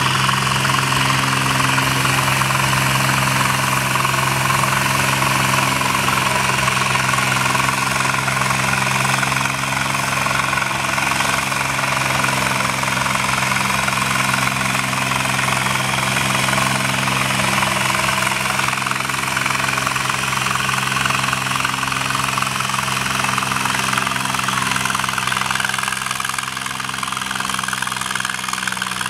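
A tractor engine running loud and steady at an unchanging speed, with a knocking, rattly note.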